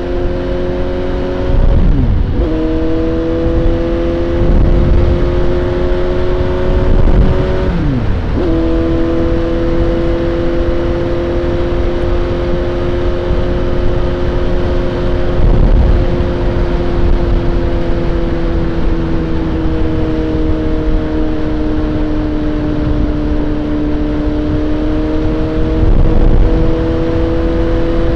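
Suzuki GSX-S750's inline-four engine under way, its note climbing and then dropping sharply at two upshifts, about two and eight seconds in. After that it holds a steady cruise, easing off slightly and picking up again near the end, over a constant low wind rumble on the microphone.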